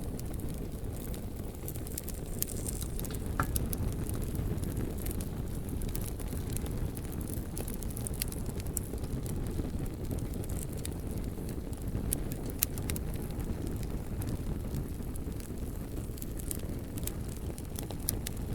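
Campfire crackling, with scattered sharp pops and snaps of burning wood over a steady low rumble.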